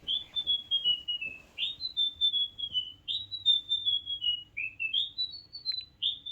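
Battery-powered toy bird chirping through its small speaker: phrases of quick whistled notes stepping down in pitch, each repeated about every second and a half.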